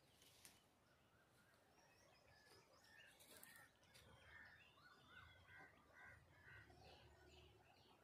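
Faint bird calls: short chirps and a run of repeated notes in the middle, with a couple of brief clicks.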